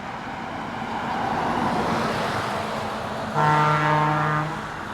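A truck's horn sounds one steady blast of about a second, about three and a half seconds in, over the noise of trucks driving past.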